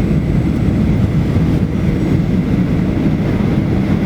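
Airliner cabin noise during landing: a steady, loud low rumble of engines and airflow heard from inside the passenger cabin, with a faint steady whine above it.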